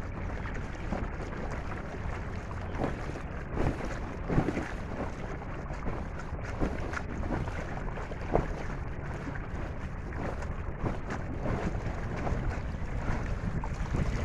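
Wind rumbling on the microphone while small waves slap and splash against the hull of a small inflatable boat under way, with irregular sharper slaps every second or two.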